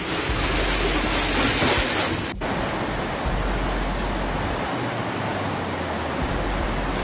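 Typhoon storm noise: a loud, steady rushing of wind and water. About two seconds in it cuts abruptly to another stretch of the same kind of rushing noise.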